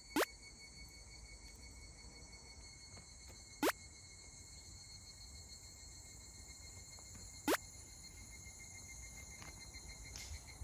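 Insects, crickets or similar, trilling in a steady high drone, with three short, loud rising sweeps about every three and a half seconds.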